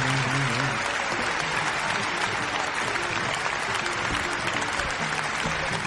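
Applause from a small audience, rising out of the end of a held sung note about a second in and running on over soft instrumental music.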